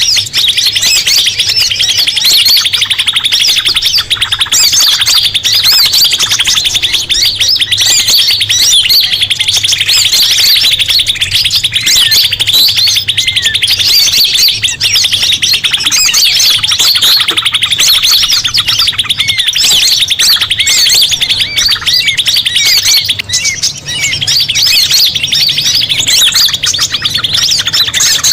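Bird-lure recording of many small songbirds calling at once: a fast, unbroken buzzing trill with quick chirps and whistles over it, briefly dipping near the end.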